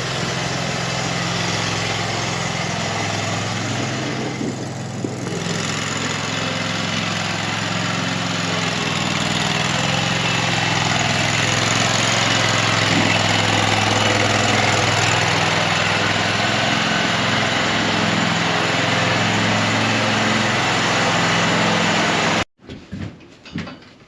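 An engine running steadily at idle, cutting off abruptly near the end.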